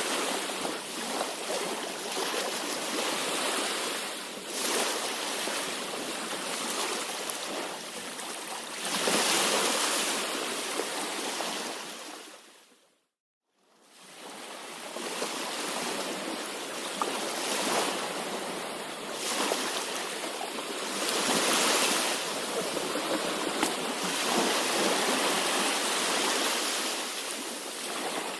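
Sea waves washing ashore in a steady hiss of surf that swells louder every few seconds. About halfway through, the sound fades out to silence for a moment and then fades back in.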